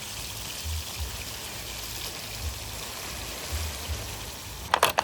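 Fish frying in a pan of oil over an open fire, a steady sizzle, with wind rumbling on the microphone. Near the end a quick run of sharp clicks and clatter.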